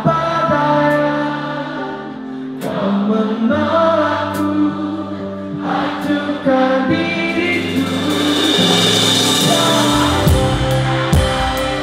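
Live band rehearsing a slow pop ballad: held voices and sustained chords, with a few sharp drum hits. A cymbal swell builds about eight seconds in, and the drums and bass come in heavily near the end.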